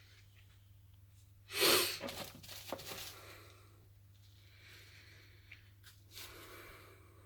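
A homemade 5-inch firework shell going off: a sudden loud whooshing blast about a second and a half in, fading over the next second with a few sharp cracks, then softer rushing noise.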